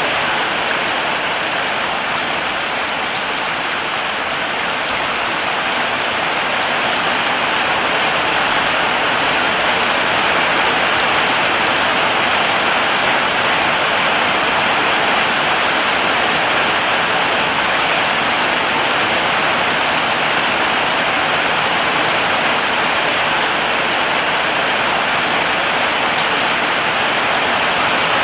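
Heavy rain falling steadily, an even hiss of countless drops on foliage and ground with no breaks or gusts.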